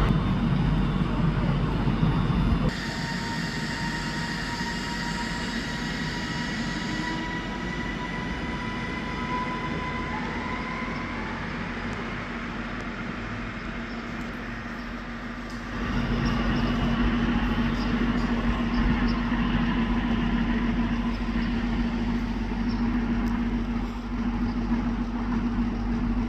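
Train moving through a station: a loud rumble at first, then a whine that slowly rises in pitch, and from about two-thirds of the way in a louder steady hum.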